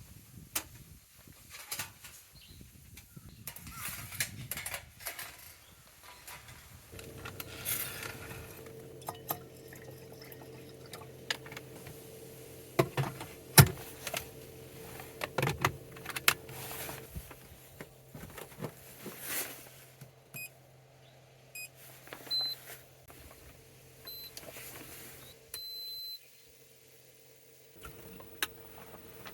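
Scattered knocks and clinks of camping gear being handled, with a steady low hum from about seven seconds in and a few short high beeps in the second half.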